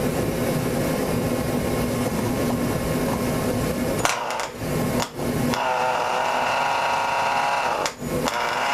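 Small engine of a micro mini pulling tractor being spun over by its electric starter with starting fluid in the carburetor, running in rapid rough bursts. The sound changes abruptly about halfway through and cuts out briefly a few times.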